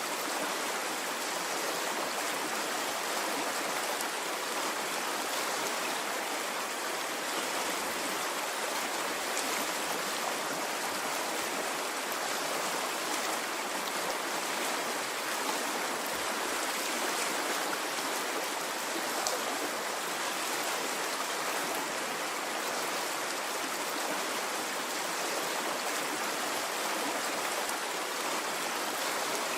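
Water flowing in a stream, a steady even rush with no surges or pauses.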